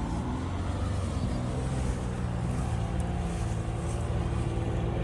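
Off-road vehicle engine running steadily at low revs, a deep even hum.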